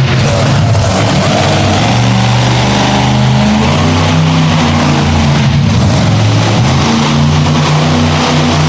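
Loud monster truck engine revving, its pitch rising and falling repeatedly as the throttle is worked.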